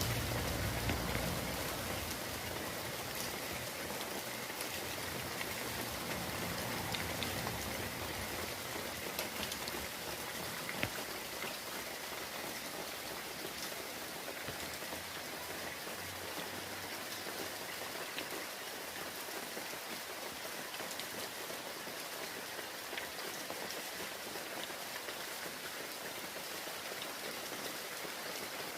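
Steady rain falling on surfaces, with many small drop ticks scattered through it. A low rumble fades out in the first couple of seconds.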